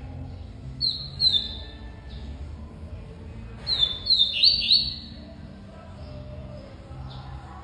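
Double-collared seedeater (coleiro) giving short, sharp, downward-slurred chirps rather than full song: two about a second in, then a quick run of three or four around the middle. A steady low hum runs underneath.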